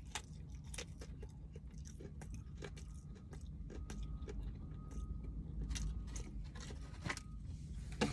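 A person biting into and chewing crispy fried chicken: irregular wet crunches and mouth sounds over a steady low rumble.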